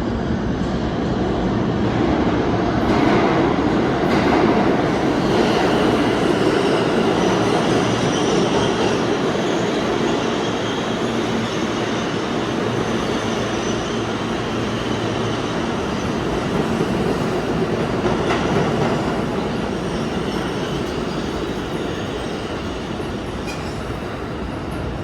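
New York City subway train running through the station, with steady wheel-on-rail noise, high wheel squeal and clicks over the rail joints.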